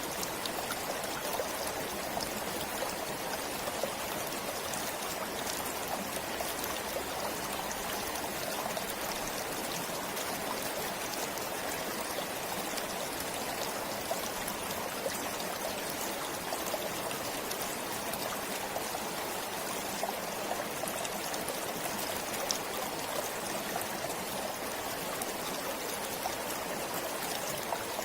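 Forest stream flowing steadily over stones, an even rushing babble with small splashes and trickles.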